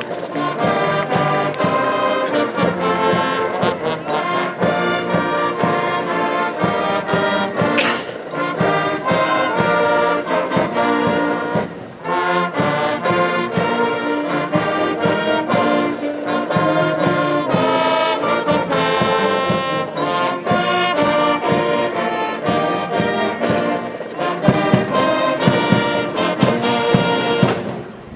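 Military brass band playing a march-like tune with trumpets and trombones, the band music that is played between and after the volleys of a feu de joie.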